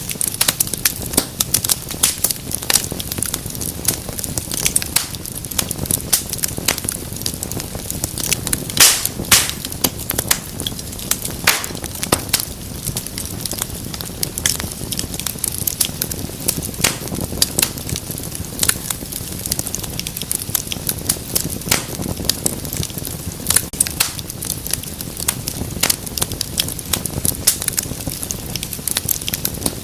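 Wood fire in a fireplace crackling, with dense irregular pops and snaps over a low steady rumble of the flames, and a few louder snaps about nine seconds in.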